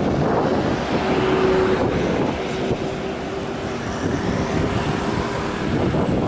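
Heavy diesel truck engine running under load on a steep climb, with a steady whine laid over the rumble from about a second in.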